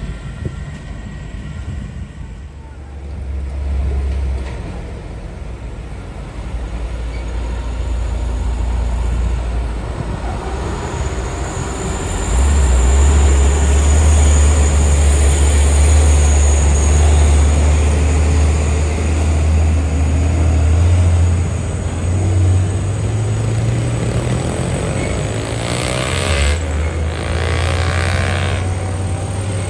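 Heavy diesel trucks passing on a mountain road with deep, steady engine rumble. It grows loudest from about twelve to twenty seconds in, with a high whine over it, and there is a brief noisy burst near the end.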